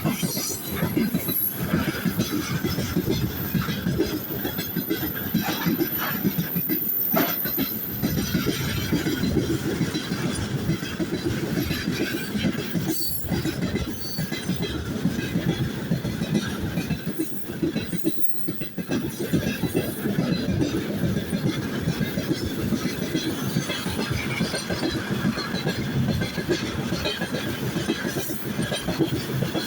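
Train wheels clattering over rail joints, a continuous rolling rumble with repeated knocks, dipping briefly about two-thirds of the way through.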